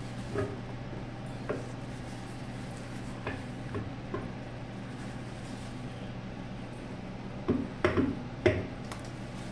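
Scattered clinks and knocks of hard objects being handled, with a quick cluster of louder ones near the end, over a steady low electrical hum.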